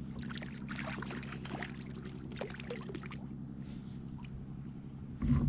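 Small splashes and drips of water around a sit-on kayak, a run of short scattered crackles, over a steady low hum. A short, louder low thump comes near the end.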